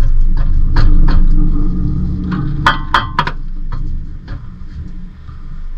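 Metal clinks and knocks from work on the underside of a car during transmission removal, with a quick cluster of ringing clinks about three seconds in. A steady low rumble runs underneath and fades near the end.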